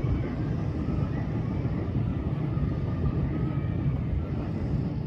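Steady low rumble of a ridable miniature train's cars rolling along the track, heard from aboard the train.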